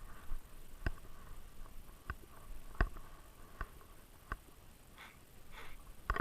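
Sharp, isolated clicks and knocks at uneven intervals, roughly one a second, picked up by a GoPro strapped to a Great Dane as the dog moves about.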